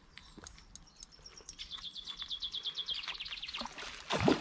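A small bird singing a rapid high trill of about a dozen notes a second, lasting about two seconds. A short, louder burst of sound follows near the end.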